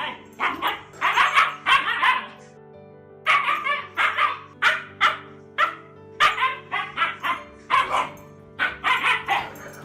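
Dog barking in quick runs of short barks, with brief pauses between the runs, over steady background music.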